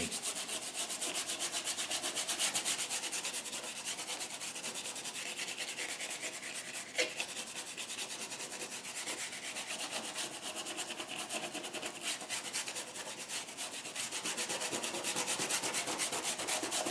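Stiff brush scrubbing quickly back and forth on a canvas, blending acrylic paint to soften edges into a smooth gradation, in a fast, even rhythm. A single sharp tap about seven seconds in.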